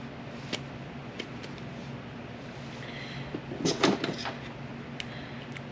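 Small metal parts of a manual-transmission shift tower being handled on a bench: a few light clicks, then a short, louder clatter of metal knocking and rattling about two-thirds of the way through.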